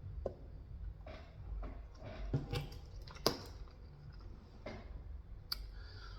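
A person chewing food close to the microphone, with scattered soft clicks and wet mouth noises and one sharper click about three seconds in, over a steady low hum.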